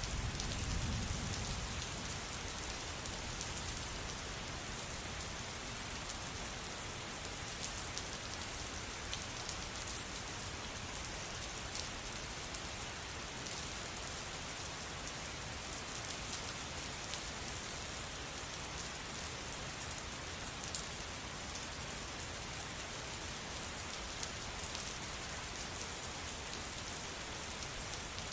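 Steady rain falling: a constant even hiss with scattered sharper drop ticks, and a brief low rumble about a second in.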